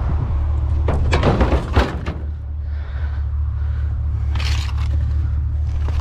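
Truck engine running with a steady low rumble, with a quick run of knocks and clatter about a second in and a shorter clatter near four and a half seconds.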